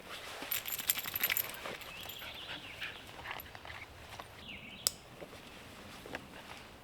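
Light metallic jingling and clinking about half a second to a second and a half in, then scattered small clicks and rustles, with one sharp click about five seconds in.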